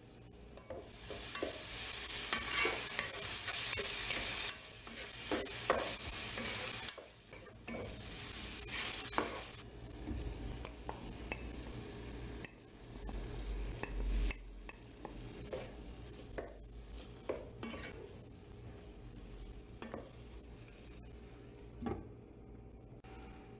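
Carrots and zucchini sizzling in hot oil in a granite-coated frying pan, loudest in the first nine seconds or so, with a spatula stirring and scraping against the pan in short clicks. A sharp clack about 22 seconds in as a glass lid goes onto the pan.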